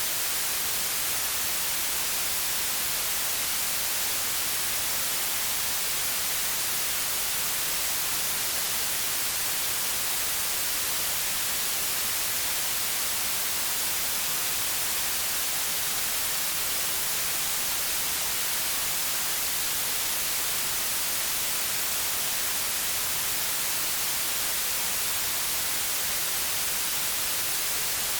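Steady white noise: an even hiss, brightest in the treble, with no change or events.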